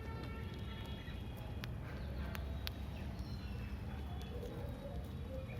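Birds chirping over a steady low outdoor rumble, with a few sharp clicks in the middle.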